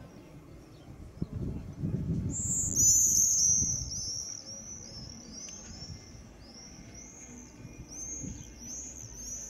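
A small bird calling in a quick run of high, repeated chirps, starting a couple of seconds in and going on, with a low rumble beneath in the first few seconds.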